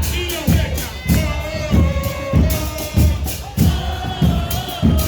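Murga porteña bombos con platillo (bass drums with cymbals mounted on top) beating a steady carnival rhythm of about two strokes a second, the cymbals clashing with the drum hits, with voices sounding over the drumming.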